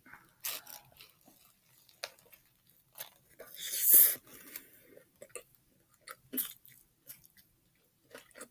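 Close-up chewing of a crispy fried chicken sandwich, with scattered small crunches and mouth clicks, and one louder, longer crackle about three and a half seconds in.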